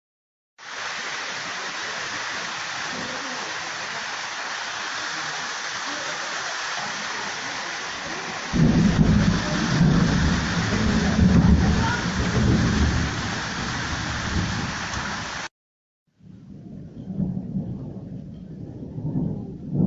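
Steady rain hissing, then about eight seconds in a long low rumble of thunder rolls in over it for several seconds. Near the end the sound cuts out briefly and a quieter rumble of thunder resumes.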